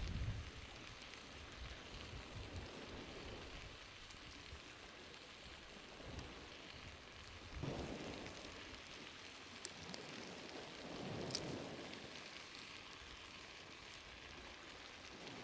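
Campfire crackling and hissing steadily, with two sharp pops about ten and eleven seconds in.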